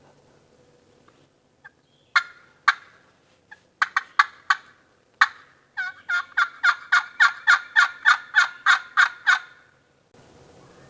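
Wild turkey hen yelping: a few single yelps, then a fast, even run of about fifteen yelps, roughly four a second, that stops about a second before the end. The hunters take it for a real hen rather than another hunter's call.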